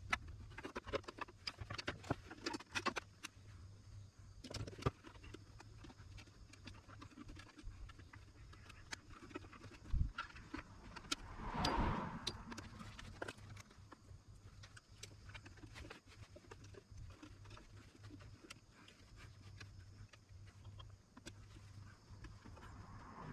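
Small clicks, knocks and taps of parts and tools being handled as a portable power station is taken apart, densest in the first few seconds. A low steady hum runs under them, and a short swelling noise comes about halfway through.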